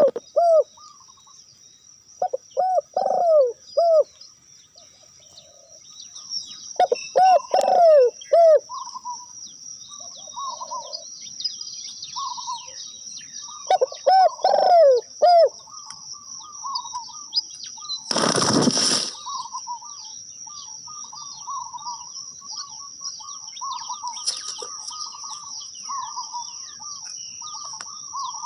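Zebra dove (perkutut) cooing in short phrases of several quick falling notes, repeated four times in the first half, over small chirping calls and a steady high whine. About two-thirds of the way in there is a loud rushing burst lasting about a second.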